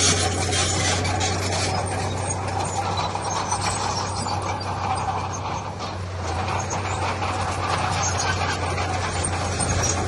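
Heavy diesel earthmoving machinery running steadily under load, a low engine hum with continuous grinding and scraping over it.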